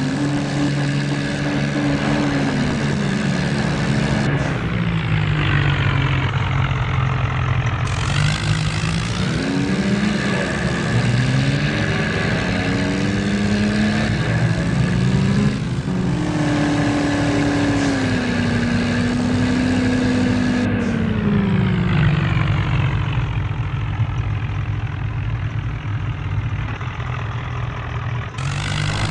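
Tractor diesel engine running hard under load, its pitch rising and falling slowly as the revs are raised and dropped several times, as when pulling out a stuck tractor.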